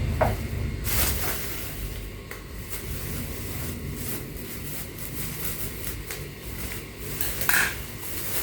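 Unpacking an electric fan by hand: plastic wrapping rustling and crinkling, with scattered light clicks and knocks of the packed parts.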